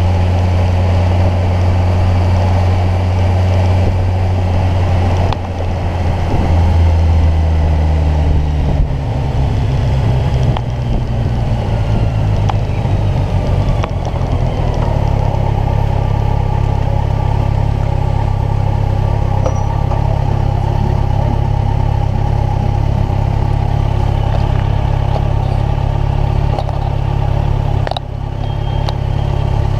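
Kawasaki Ninja 1000's inline-four engine running under way. Its note shifts in pitch in steps a few times, about 5, 9 and 15 seconds in, and dips briefly in loudness near the end.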